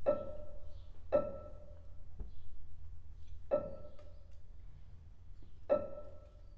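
Contemporary chamber music: four sparse, separate notes struck or plucked on the same pitch, each dying away quickly, with long gaps between them over a faint low hum.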